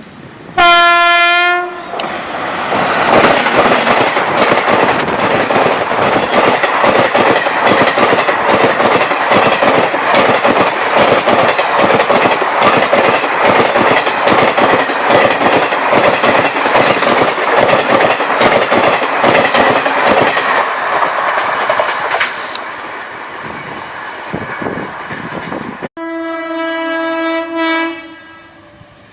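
WAP-7 electric locomotive gives a short horn blast, then an express passenger train rushes past at speed, its wheels clattering rhythmically over the rail joints for about twenty seconds before the sound fades. After a sudden break near the end, a horn sounds again for about two seconds.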